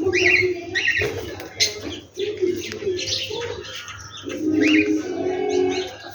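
Several birds calling at once: short high chirps over repeated low cooing calls like a dove's.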